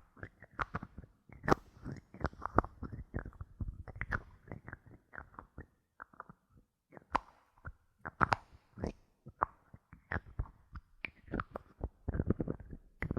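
Bottle caps being handled, giving a dense, irregular run of clicks and taps, sparser for a moment around the middle and thicker near the end.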